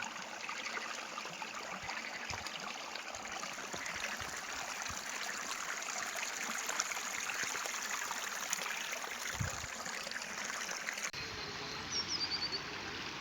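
Running water of a small stream, a steady trickle. Near the end a short run of high chirps sounds over it.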